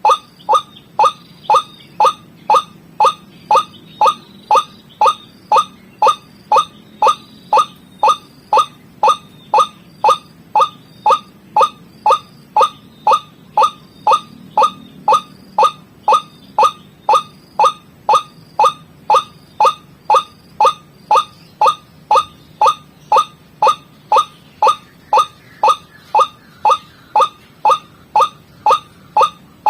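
White-breasted waterhen (ruak-ruak) call repeated over and over, about two short notes a second, each note dropping in pitch. It is a looped lure recording used to attract the birds.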